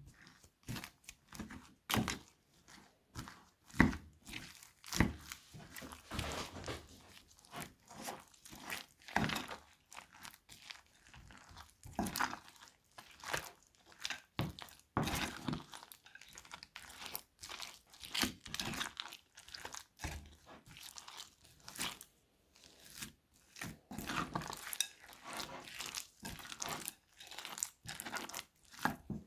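Crunchy slime being squeezed and worked by hand, giving a stream of irregular crunching and crackling pops.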